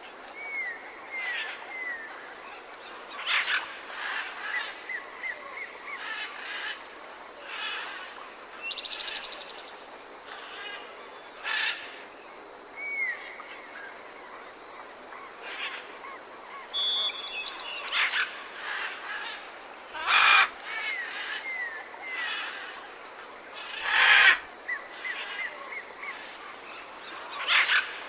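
Parrots calling: a run of short chirps and repeated falling whistles over a steady background hiss, broken by loud, harsh squawks about twenty seconds in, again a few seconds later, and near the end.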